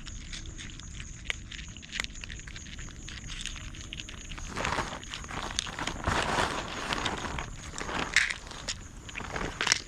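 Rustling and crackling with scattered sharp clicks, getting denser and louder about halfway through, over a faint steady high tone.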